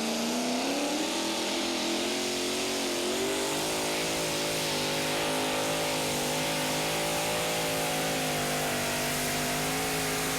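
Pulling tractor's all-aluminum Keith Black Hemi V8 running hard under load. It revs up over the first few seconds, then holds a high, steady pitch that eases slightly near the end.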